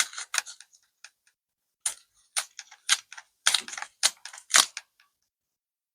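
Adhesive tape being handled and pressed against a laptop's plastic casing: irregular sharp clicks and crackles for about five seconds, then stopping.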